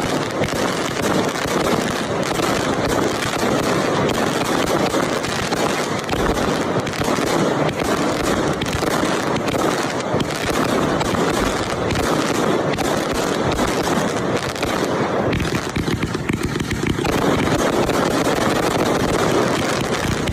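Consumer firework cakes, the Cyclops chained into the Death Row, firing a long, dense barrage of shots in rapid succession. The reports run together with no real gaps and stay steady in loudness.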